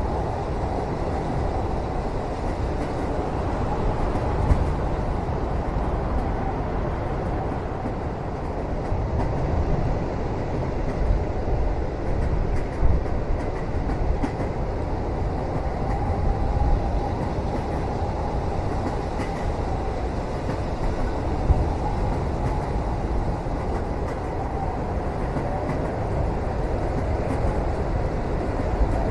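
Train running steadily on its rails, heard from inside a passenger cabin: a continuous low rumble with a few light knocks now and then.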